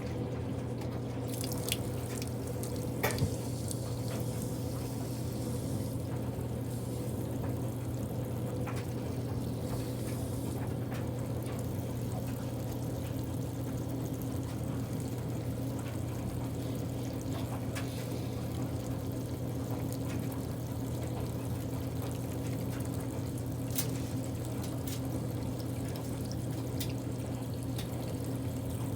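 Water pouring into the tub of a Kuppet portable washing machine as it fills, over the steady low hum of a clothes dryer running. A couple of brief clicks come about three seconds in and near the end.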